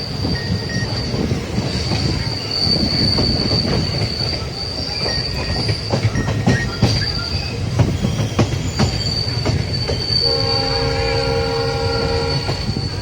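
Indian Railways express passenger train heard on board while running: a steady low rumble of the coach with scattered clicks of the wheels over rail joints and a high, steady wheel squeal. Near the end a locomotive horn sounds for about two and a half seconds.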